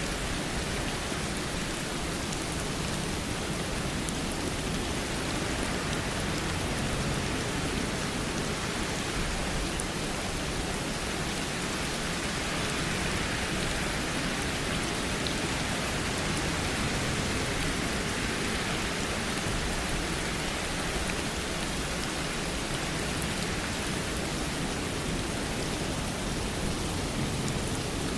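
Steady rain falling, an even hiss of rain with no breaks.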